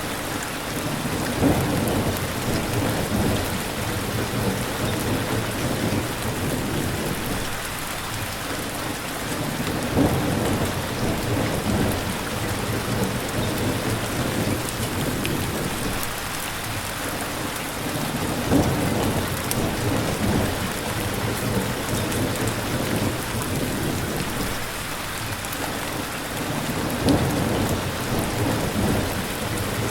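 Steady, heavy rain falling, with a low rumble of thunder swelling up four times, roughly every eight to nine seconds.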